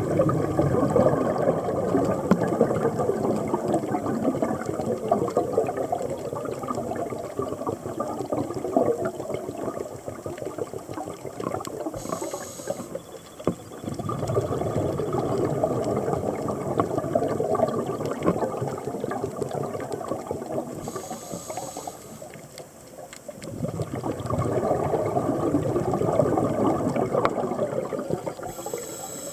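Underwater scuba breathing through a regulator: three long exhalations of rushing, bubbling exhaust, each followed by a short hissing inhalation.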